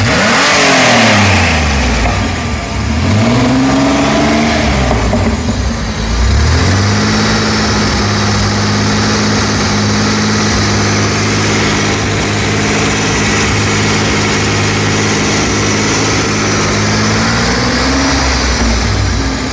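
Pontiac Fiero's 2.8-litre V6 falling from high revs, revved up and dropping back once more, then settling into a steady idle from about six seconds in, with a slight rise in revs near the end. The owner suspects a wrong air-fuel mixture behind its hard starting and poor idle.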